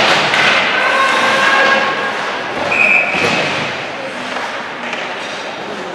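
Ice hockey game noise in an echoing arena: skating and stick play with thuds against the boards, under scattered spectator calls.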